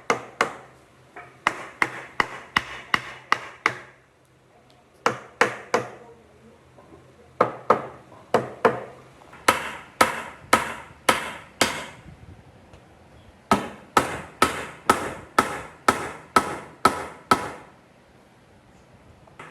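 Sharp blows of a hand tool striking wood, in runs of three to about ten strikes at roughly three a second, with short pauses between runs.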